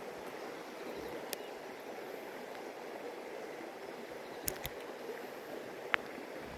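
Stream water running steadily, with a few short, sharp clicks: one about a second in, two together past the middle, and one near the end.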